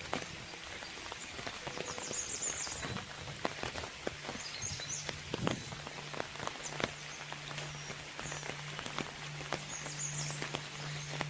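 Rain falling outdoors, with many irregular drop ticks over a steady hiss. A low steady hum comes in about four seconds in.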